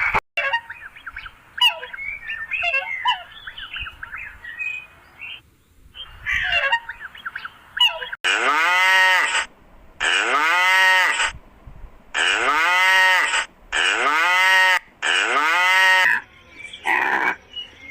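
A farm animal calls five times, evenly spaced, in the second half; each call is long and rises and then falls in pitch. Before the calls comes a run of quick, high bird chirps.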